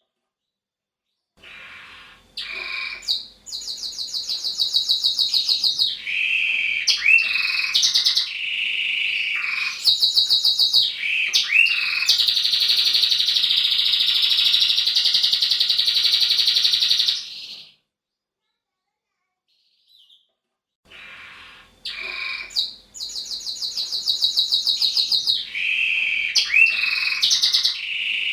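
Male roller canary singing: rapid trills and rolls in a series of phrases, including one long unbroken roll of about five seconds. The song stops for about three seconds, then starts again.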